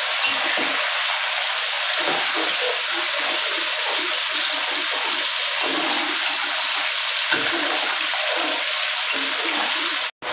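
Yardlong beans frying in hot oil in a pan, a loud steady sizzle. It breaks off for an instant near the end.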